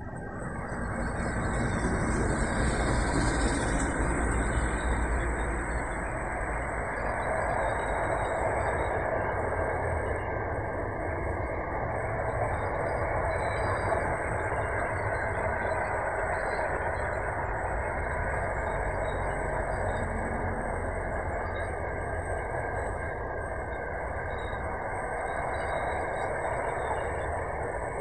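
Diesel-electric freight locomotive passing close by, loudest in the first few seconds, followed by a long intermodal container train rolling past with steady wheel-on-rail rumble.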